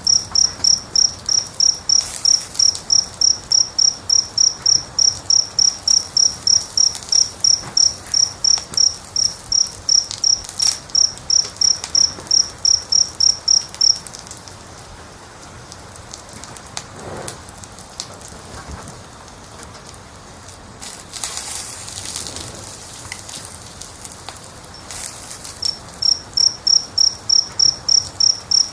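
A cricket chirping steadily at about three chirps a second, high-pitched; it falls silent about halfway through and starts again near the end. Soft crackles and pops from a fire sit underneath.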